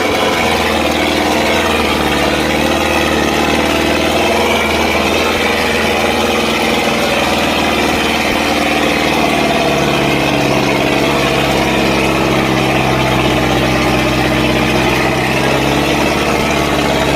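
Diesel engine of a Sonalika 55 HP tractor running steadily, its pitch shifting slightly about ten seconds in.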